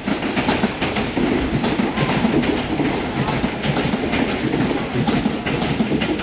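New York City subway train running on the rails, a steady loud rumble with faint irregular knocks from the wheels.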